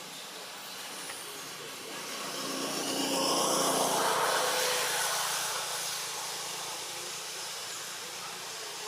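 A passing motor vehicle: a rushing engine noise that swells about three seconds in and slowly fades.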